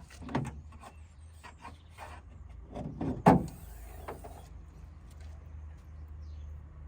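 A few short knocks and rattles, the loudest a sharp thump about three seconds in, over a steady low hum.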